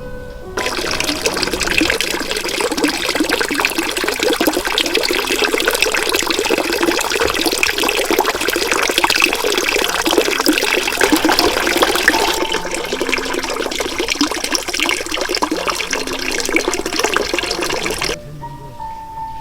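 Loud running, splashing water that cuts in suddenly about half a second in and cuts off suddenly near the end, its sound shifting a little about two-thirds of the way through. Background music plays faintly underneath.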